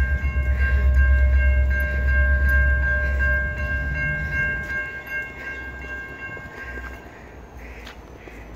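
Freight train led by SD70ACe diesel locomotives passing close by: a heavy low rumble that fades after about five seconds, with a steady multi-note horn chord held and then cut off about seven seconds in.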